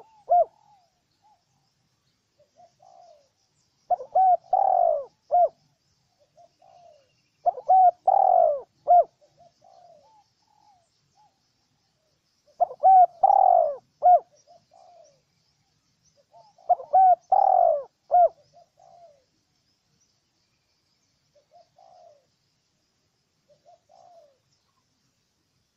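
Spotted dove cooing: a loud phrase of several coos repeated about every four to five seconds, followed near the end by a few softer single coos.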